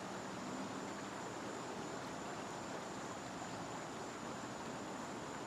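Faint, steady outdoor ambience: an even hiss with a thin, high steady whine running through it.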